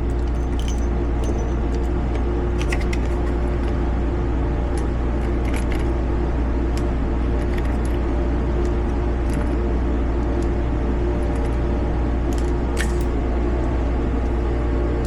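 A snub-nosed revolver being reloaded: scattered light metallic clicks and clinks of cartridges and the cylinder, over a steady low rumble.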